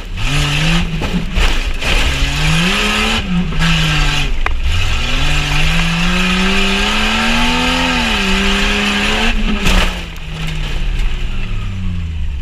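Jeep Cherokee XJ engine revving hard, rising and falling in pitch several times with one long climb midway, then easing off near the end. Several loud bangs and knocks from the truck's body and suspension come over it.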